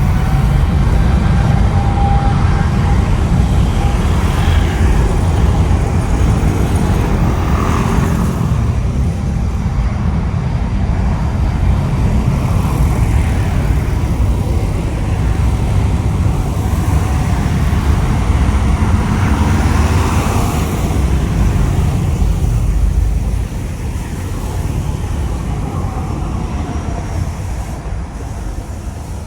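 Jet airliner's engines running at high power as it passes, a loud low rumble that eases about 23 seconds in.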